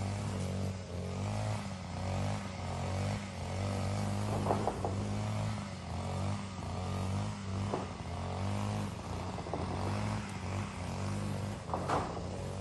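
Steady droning hum of a motor or engine, with three sharp knocks or clatters spread across it.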